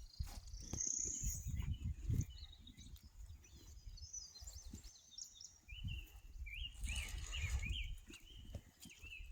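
Small birds chirping and singing, with a rapid chattering run of notes in the second half, over an uneven low rumble.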